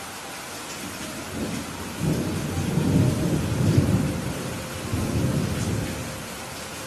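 Steady rain falling while a roll of thunder builds about a second and a half in, peaks in the middle, and rumbles away near the end.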